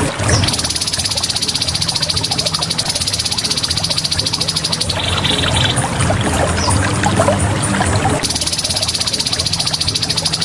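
Grey-headed babbler giving a rapid, buzzy high trill twice, with a short higher note between the two trills, over a steady background of running water.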